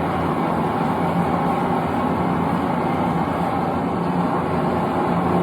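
Propane forge burner running with a steady rushing noise, with no hammer blows.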